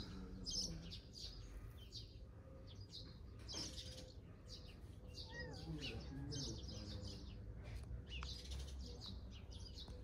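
Small birds chirping and twittering repeatedly, short high calls with a few curving whistled notes, over a low steady background rumble.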